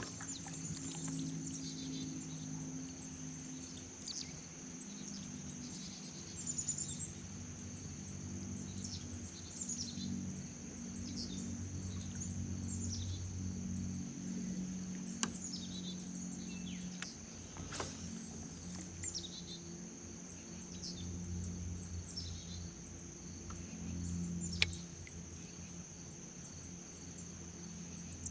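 Birds chirping in scattered short calls over a steady high insect drone, with a low steady hum underneath.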